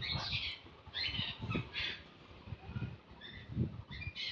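Birds calling outdoors in short, harsh bursts, repeated every half second to a second, over low rumbling thumps.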